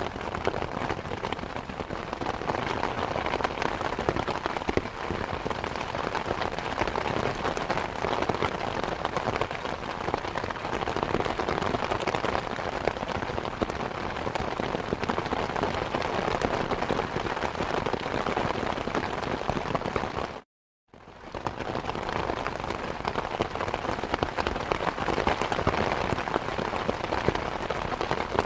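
Steady rain falling, a dense patter of drops. A little over two-thirds of the way through it cuts out to silence for about half a second, then comes straight back.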